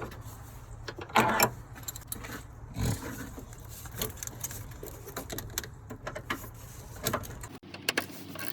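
Metal hand tools clinking and rattling: a ratchet with a socket extension being fitted and worked on a battery hold-down bolt, as irregular small clicks with a couple of louder clatters.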